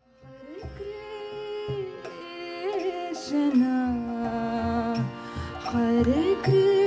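Devotional kirtan music fading in: held drone notes, low hand-drum strokes, and a melody line that glides up between notes.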